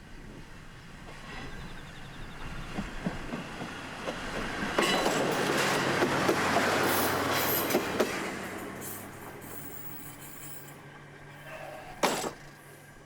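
Kominato Railway KiHa 200-series diesel railcar running past close by: the rumble builds, peaks for a few seconds with wheels clicking over the rail joints, then fades away. One sharp, loud hit comes about a second before the end.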